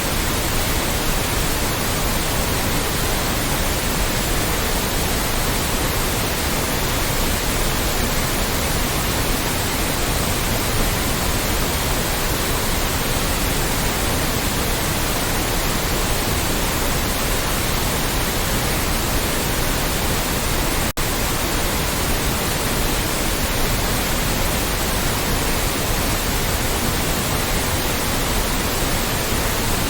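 Loud, steady white noise: an even hiss spread across all pitches, with a split-second dropout about 21 seconds in.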